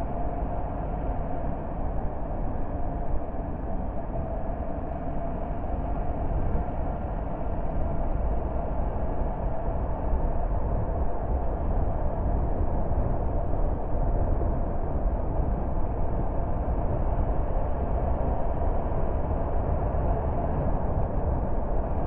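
Car being driven on the road: steady, low tyre and engine noise, slightly louder about a third of the way in.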